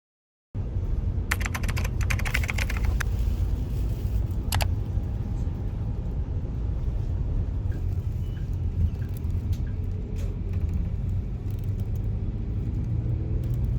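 A steady low rumble that starts suddenly, with a quick run of clicks between about one and three seconds in and a single sharp click a little later.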